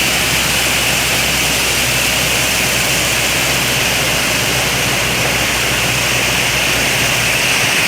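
Steady roar of a large waterfall in full flood after heavy rain, with a low hum underneath that fades near the end.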